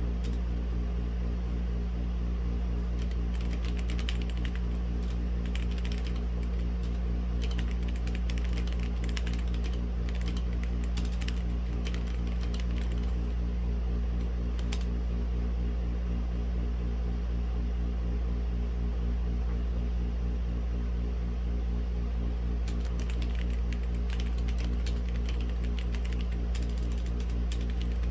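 Typing on a Womier/Gamakay K87 mechanical keyboard with red linear switches: a run of quick key clicks through the first half, a pause of several seconds, then typing again near the end. Under it a steady low machine hum.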